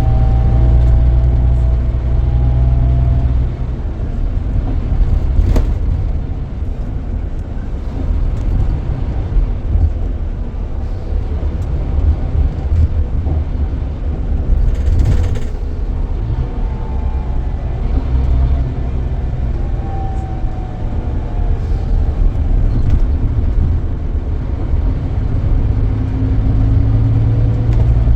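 Scania K440EB coach's 13-litre six-cylinder engine heard from inside the cabin while driving, its pitch gliding up and down. It pulls hard for the first few seconds, eases off through the middle, and pulls strongly again in the last third, with a short hiss about halfway through.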